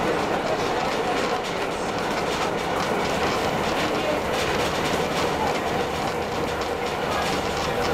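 Heritage train running along the Roslagsbanan track: a steady, even rolling noise of wheels on rails, with no single event standing out.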